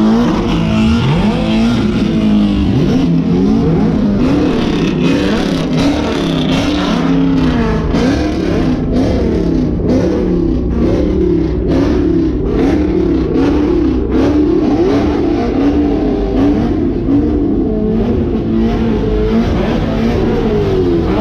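Car engines revving over and over, several overlapping, their pitch rising and falling constantly, with scattered sharp cracks.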